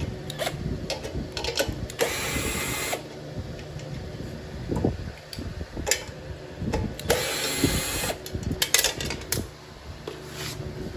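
Two short runs of a power driver spinning nuts on a small mower engine, about a second each, one about two seconds in and one about seven seconds in. Clinks and knocks of tools and metal parts come in between.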